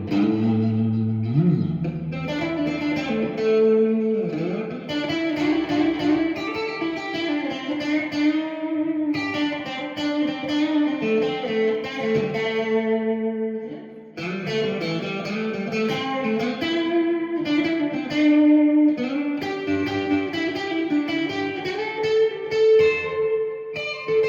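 Tokai AST 114SH Strat-style electric guitar played on its middle single-coil pickup: picked single-note phrases and chords with ringing notes, one note sliding up a little over a second in, and a short break about fourteen seconds in.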